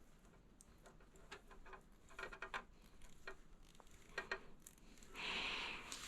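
Faint small clicks and ticks of wires and plastic wire nuts being handled and twisted together, followed near the end by a louder breathy noise lasting about a second.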